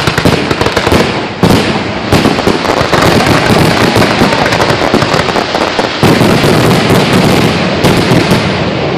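Aerial fireworks bursting in a rapid, unbroken barrage of booms and crackle, with a few heavier bangs standing out, easing off slightly near the end.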